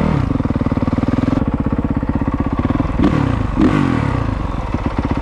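Dirt bike engine running at idle with an even firing beat, blipped briefly twice around three seconds in.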